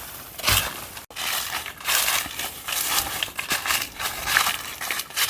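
Footsteps crunching through dry leaf litter on the forest floor, one crackling step after another, with a very brief break about a second in.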